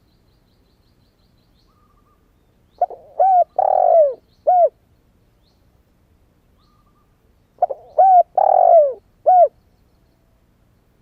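Spotted dove cooing: two phrases about five seconds apart, each a few short coos around one longer drawn-out note. It is a young male newly come into song.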